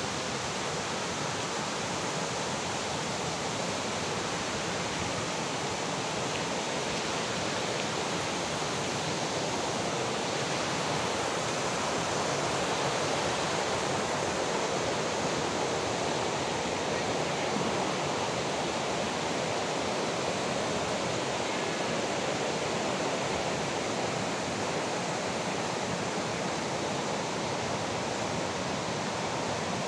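Steady rushing of a waterfall, an even roar of falling water at constant strength throughout.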